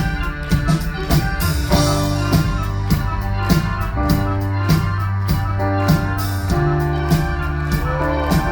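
Live band playing an instrumental passage: a steady drum beat, about two strokes a second, under held keyboard chords.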